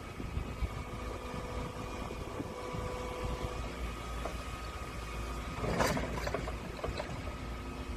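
Excavator's diesel engine running steadily with a constant low rumble and a held whine, and a sudden knock just before six seconds in.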